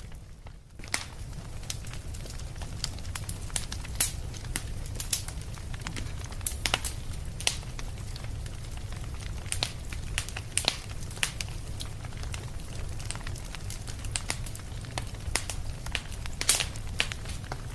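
Wood fire in a fireplace crackling, with frequent irregular sharp pops over a steady low rumble. The sound dips briefly just before a second in.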